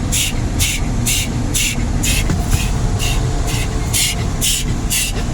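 Automatic car wash blower dryers running, blasting air over the car: a steady low rumble with a hiss that pulses evenly about twice a second.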